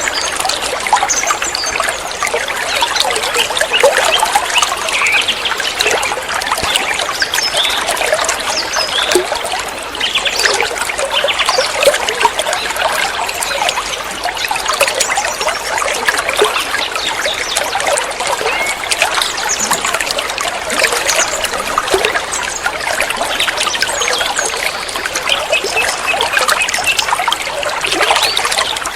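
Water trickling and splashing steadily, a continuous dense patter of small droplets with no pauses.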